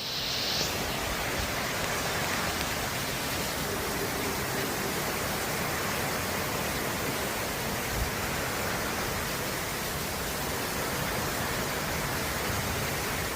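Heavy storm rain pouring down in a steady, dense hiss, with a faint knock about eight seconds in.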